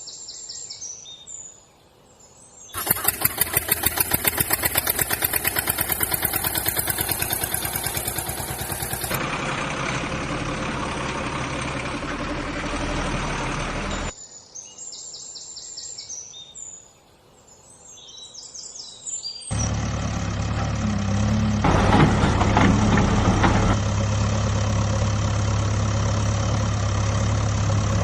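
Truck engine sounds: a fast pulsing engine start, then a steady run, then a low idle that grows a little louder. Birds chirp in two quieter gaps between the engine sounds.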